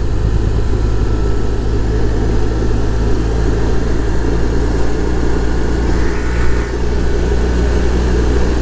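BMW R1200 boxer-twin motorcycle engine running steadily under way, with a dense rumble of wind and road noise on the helmet-cam microphone.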